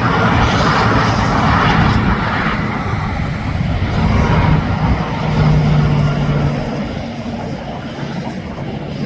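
Interstate highway traffic, with tractor-trailers passing at speed. A tyre-and-wind roar swells over the first couple of seconds, then a steady low engine drone sounds around the middle, and the noise eases off in the last few seconds.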